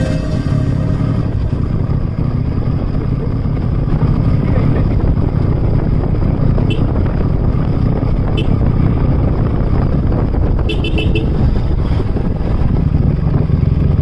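Royal Enfield Classic 350's single-cylinder engine running steadily while riding, heavily mixed with wind rush on the action camera's microphone. A few short high beeps or chirps sound partway through.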